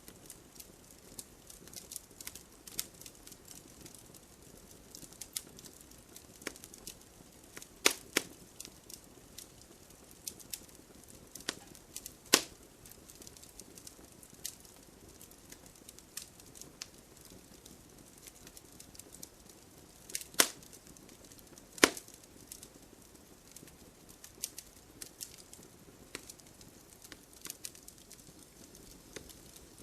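Wood fire in a fireplace crackling: scattered small irregular clicks over a faint hiss, with four sharp louder pops of splitting wood.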